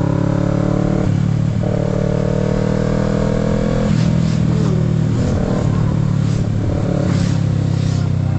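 Kawasaki Z650's parallel-twin engine pulling under load while riding. Its pitch climbs slowly, then drops sharply about a second in, near the middle and again a little later, as it does on upshifts.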